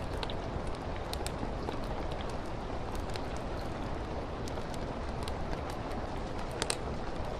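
Steady rain falling, mixed with a crackling wood fire in a fireplace: a constant rain hiss with scattered sharp crackles and pops, one a little louder near the end.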